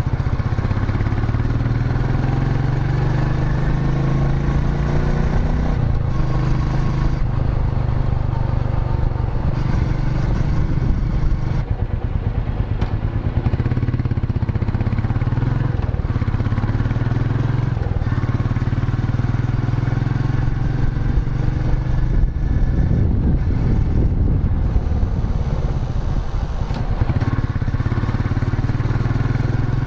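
Royal Enfield Meteor 350's single-cylinder engine running under way with the bike ridden, its pitch rising and falling with throttle and speed changes.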